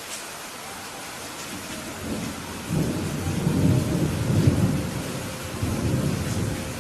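Steady rain hiss with a low, rolling rumble of thunder that builds about two seconds in, is loudest near the middle and dies away before the end.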